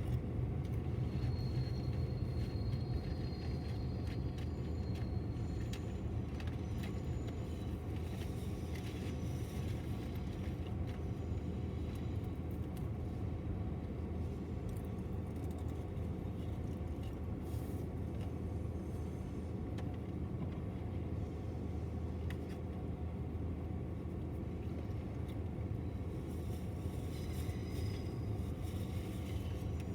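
BNSF intermodal freight train rolling past with a steady low rumble.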